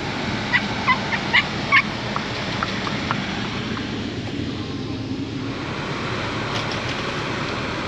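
A quick run of about four short, high-pitched animal calls, then a few fainter ones, over steady outdoor background noise.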